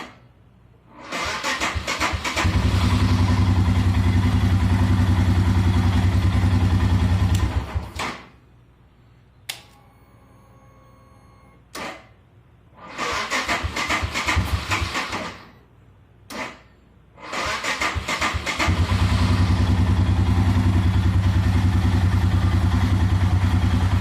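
Royal Enfield Himalayan's 411 cc single-cylinder engine being electric-started several times: the starter cranks for a second or more before the engine catches and idles, then it is switched off. A later crank does not catch, and the one after it catches and idles. The slow cranking is the symptom being tested, which the owner puts down to either a bad starter or a weak battery.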